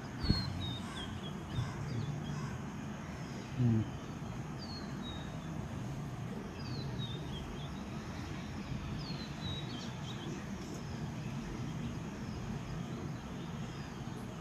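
Birds chirping in the background, short high falling notes repeated every second or so, over a steady outdoor background noise. A sharp knock comes just after the start and a brief low rising sound near four seconds in.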